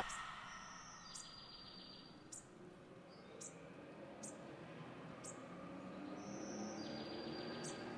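Faint forest birdsong: a short, high chirp about once a second, and twice a longer buzzing trill.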